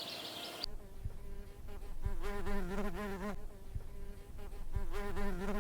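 A flying insect buzzing with a wavering pitch, loudest in two stretches of about a second each, with a few soft low thumps. It follows brief bird chirps over outdoor noise that cut off under a second in.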